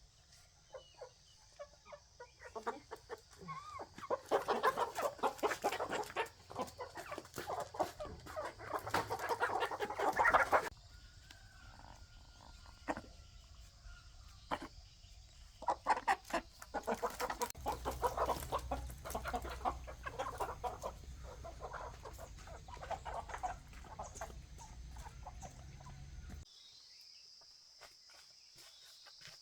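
Chickens clucking and squawking in two busy stretches.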